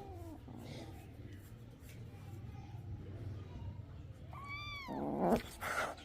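Kitten meowing: a short falling call at the start, then a high meow that bends up and down about four and a half seconds in, followed by a loud rough noise burst.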